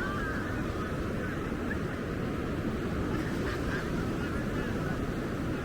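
Steady wash of ocean surf, with birds calling over it again and again in short chirps.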